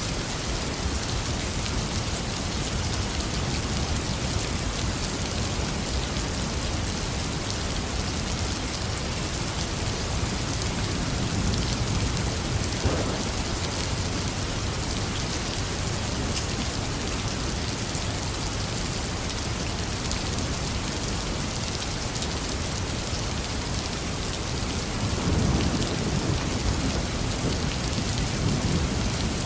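Heavy rain falling steadily, with thunder rumbling low twice: once about a third of the way in, peaking in a short crack, and again near the end.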